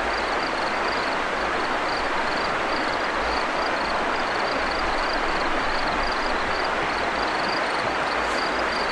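River water rushing steadily, with a faint high chirp repeating about three times a second.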